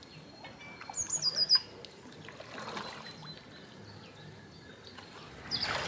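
A small songbird chirping: a quick run of high chirps stepping down in pitch about a second in, over faint water sounds from the paddled canoe. A louder rush of noise comes near the end.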